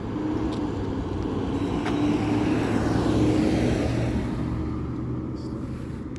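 A road vehicle, likely a truck, passing by: a steady engine and tyre sound that swells to its loudest about halfway through and then fades away.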